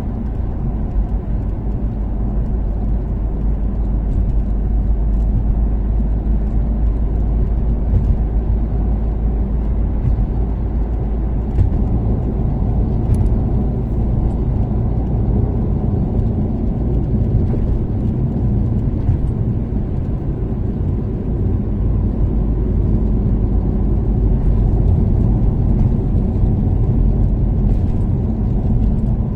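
Toyota Caldina's turbocharged 3S-GTE four-cylinder engine and tyre noise while cruising at a steady speed on an expressway: an even, low drone.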